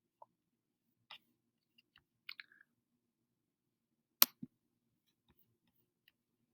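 A few faint small clicks, then one sharp click about four seconds in, followed a moment later by a soft thump.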